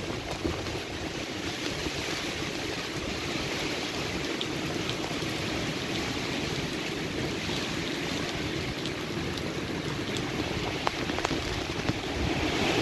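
Heavy hurricane rain and wind: a steady rushing noise of downpour and gusts.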